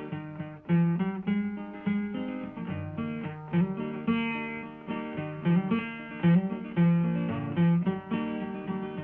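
Acoustic guitar strumming chords in a steady rhythm: the instrumental break of a folk song between sung verses.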